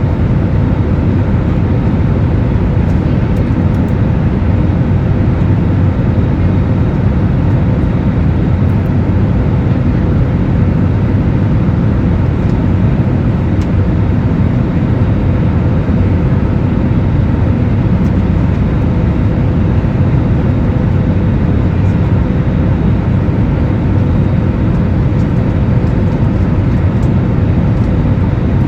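Steady, loud cabin noise of a jet airliner: an even rumble with a faint constant hum.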